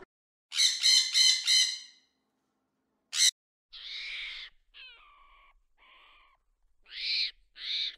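A series of harsh animal calls: a quick run of about five near the start, a sharp snap about three seconds in, then five shorter calls spaced apart.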